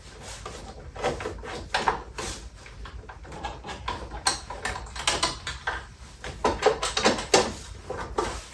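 Packing material being handled and pulled out of a new 3D printer: a run of irregular scrapes, rustles and light knocks.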